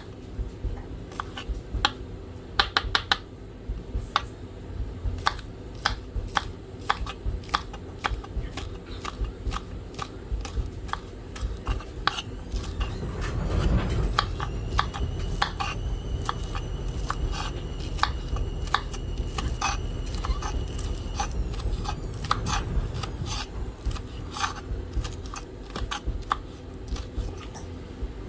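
Kitchen knife chopping garlic on a cutting board: irregular sharp taps throughout. A low steady hum with a faint thin whine comes in about halfway through for around ten seconds.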